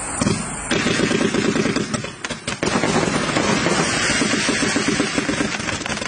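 Tang Hua 1088-shot fireworks cake firing, its shots going off in rapid succession, with a brief lull about two seconds in.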